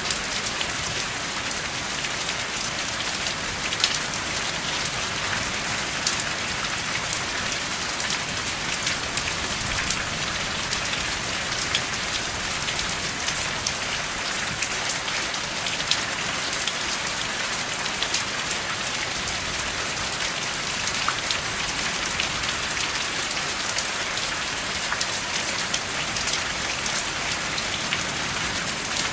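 Steady rain, a dense even hiss with many individual drops ticking sharply. There is no thunder.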